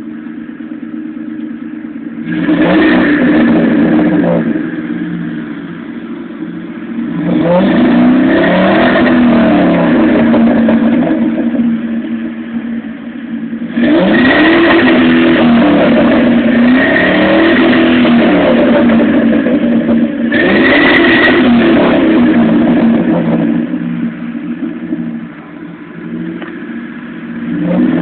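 Ford Crown Victoria V8 exhaust idling and being revved up and down in repeated blips of a few seconds each, dropping back to idle between them.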